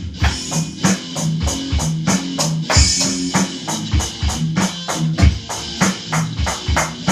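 Drum kit and electric guitar playing together in a fast rock groove, with steady rapid cymbal and drum hits over sustained guitar notes. The drums are the louder of the two, and the guitar is faint beneath them.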